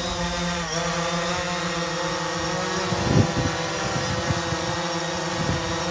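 Steady motor hum made of several evenly spaced tones, dipping briefly in pitch under a second in, over a rumble of wind on the microphone, with low wind thumps about three seconds in.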